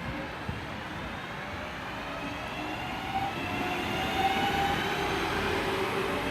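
A Class 323 electric multiple unit pulling away, its traction motors whining in several tones that rise slowly in pitch as it accelerates, getting louder about halfway through.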